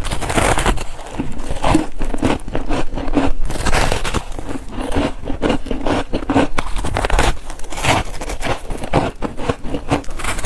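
Close-miked biting and chewing of bars of freezer frost: a dense, irregular run of crisp crunches and crackles.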